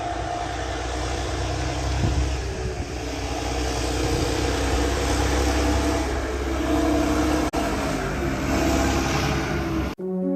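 Homemade heavy 4x4 tractor's engine running steadily under load, with a brief cut about seven and a half seconds in. Music starts right at the end.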